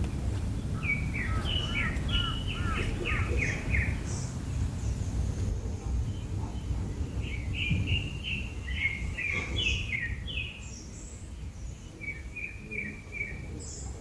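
A bird singing in three bouts of quick, repeated chirping notes, over a steady low background rumble.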